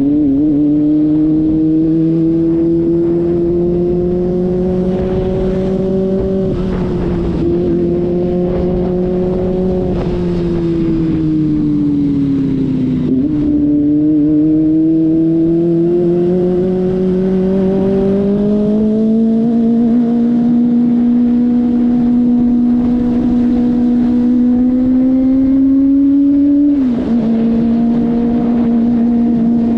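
Kawasaki ZX-25RR's 250 cc inline-four engine under way, its pitch climbing and falling with the throttle, with sudden drops at upshifts a quarter of the way in and near the end.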